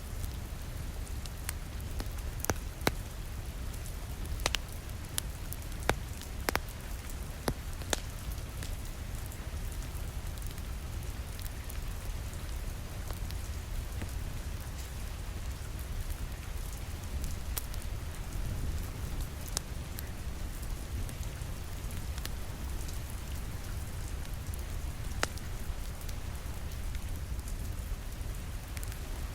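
Steady rain with an open wood fire crackling. Sharp pops come often in the first several seconds and only now and then after that.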